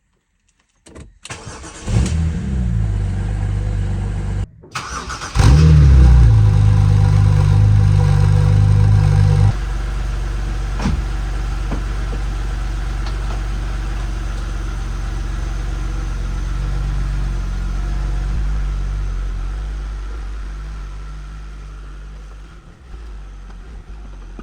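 BMW Z4 E85 engine starting about two seconds in and running, louder for a few seconds after a brief break, then settling into a steady idle that slowly fades near the end.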